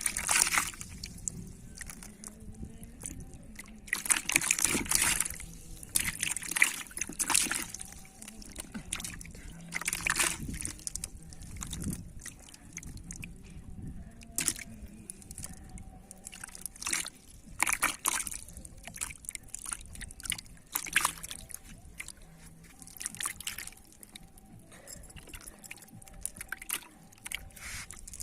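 Shallow water sloshing and splashing in irregular bursts, with softer trickles and drips between them.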